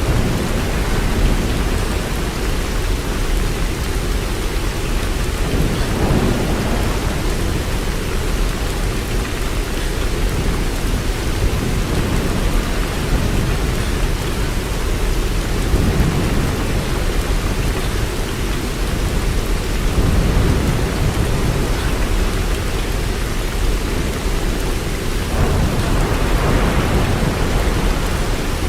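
Steady heavy rain, a continuous hiss over a low rumble that swells several times.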